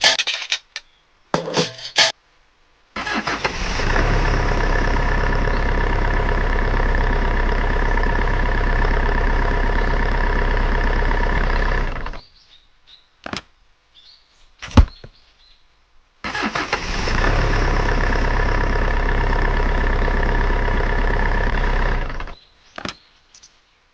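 A mini truck's motor runs steadily for about nine seconds, stops, and runs again for about six seconds, with a few short clicks and knocks in the pause between.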